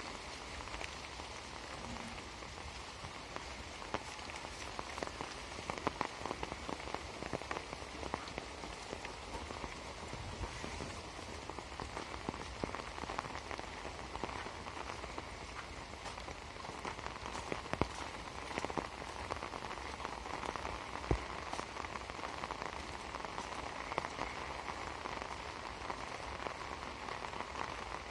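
Steady rain, a continuous hiss dotted with many small, sharp drop hits.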